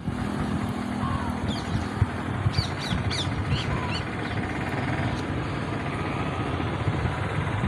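Birds chirping: a burst of quick, high, falling notes from about one and a half to four and a half seconds in, with a couple of lower short calls, over a steady low rumble.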